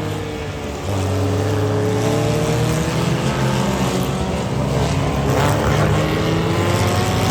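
A car engine running close by, its pitch drifting gently up and down; it grows louder about a second in.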